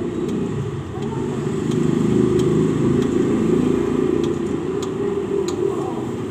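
A motor vehicle's engine running, swelling in the middle and easing off again, like a vehicle passing. A few light clicks are scattered through it.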